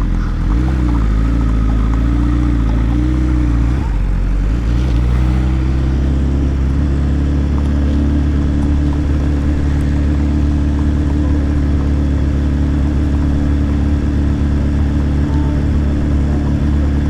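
BMW S1000RR's inline-four engine running, its pitch rising and falling with the throttle over the first few seconds, then holding at a steady speed.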